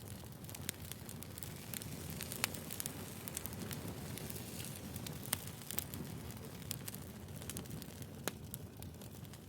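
Firewood burning: a steady low rush of flames with frequent sharp pops and snaps, a few of them louder.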